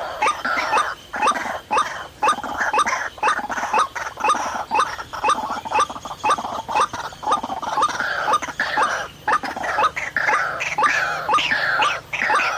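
White-breasted waterhen calls: an unbroken run of harsh, rapidly repeated calls, about three or four a second.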